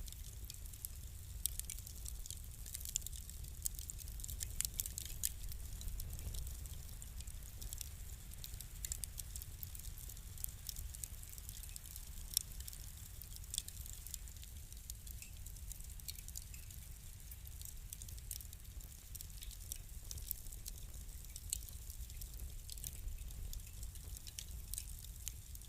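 Fire crackling: irregular sharp snaps and pops, several a second, over a low steady rumble.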